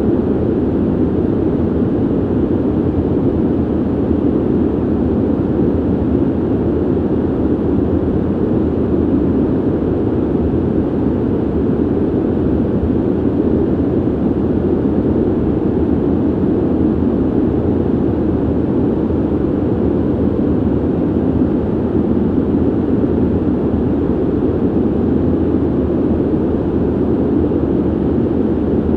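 Ventilation noise: a steady, dull airflow hiss weighted toward the low and middle range, with little treble and no change in level.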